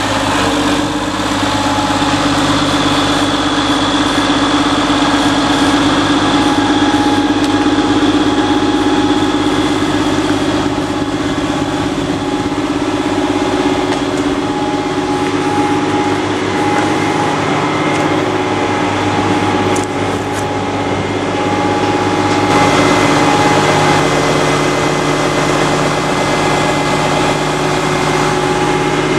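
Diesel engine of a CAT snowmobile-trail groomer running steadily, with several held tones above a constant low engine note. The low end shifts slightly about three-quarters of the way through.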